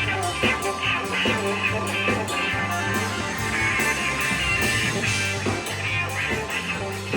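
Rock band playing an instrumental passage: guitar over a steady bass line and regular drum hits, with no singing.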